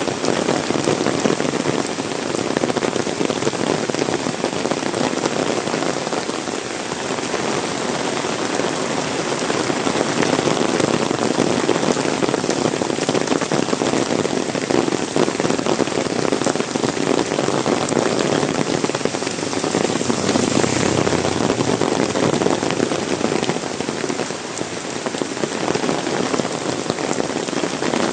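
Heavy rain pouring down steadily, a dense patter of countless drops.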